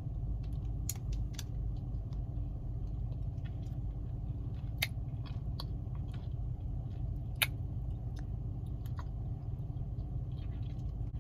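A person chewing a protein bar with soft, occasional crunchy clicks, over the steady low hum of an idling car.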